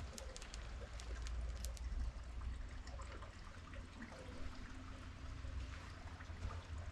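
Marbles rolling along a marble-run track: a low steady rumble with scattered small clicks, thickest in the first two seconds.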